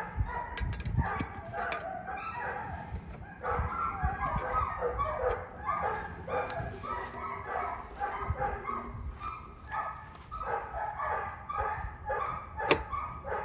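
A dog whining and yipping over and over in short pitched calls, with a sharp click near the end.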